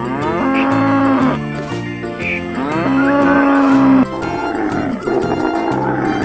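A cow mooing twice, each moo long and held at a steady pitch, over background music.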